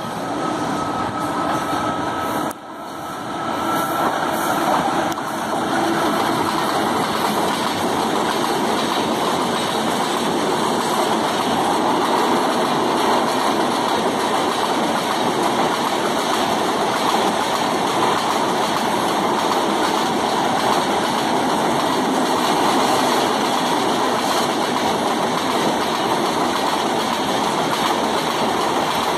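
Passenger train's coaches rolling past on the rails, a steady rumble and rush of wheels on track, with a short drop in sound about two and a half seconds in.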